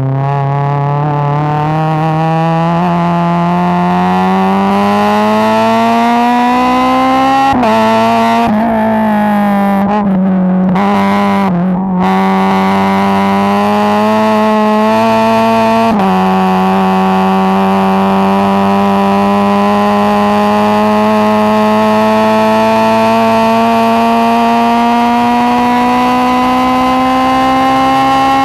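Four-cylinder track car engine at full throttle on a circuit, its pitch climbing steadily through the gears. About 7.5 s in the note breaks and dips several times as the car brakes and downshifts, climbs again, drops a step with an upshift about 16 s in, then rises slowly for a long time down the straight.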